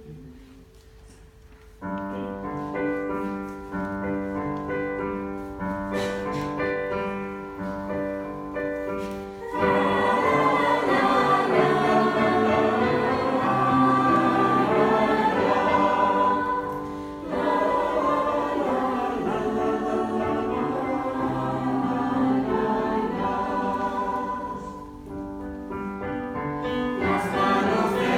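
Piano playing an introduction, then a youth choir comes in singing about nine seconds in, with the piano accompanying.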